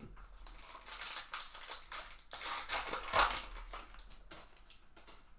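Crinkling and tearing of a plastic trading-card pack wrapper as a pack is opened: a dense, crackly rustle, loudest a little after three seconds in, that fades toward the end.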